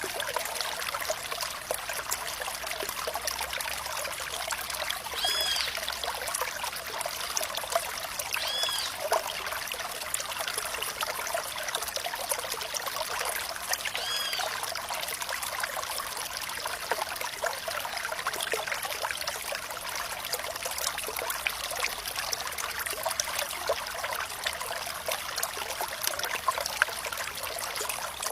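Running water trickling steadily, a light, high, bright hiss with little low rumble. Three short high rising-and-falling notes sound over it, about 5, 9 and 14 seconds in.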